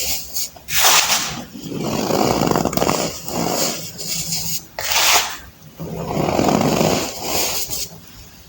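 Blocks of baking soda crushed and crumbled by hand, about six crunchy bursts of different lengths, roughly one every second or so.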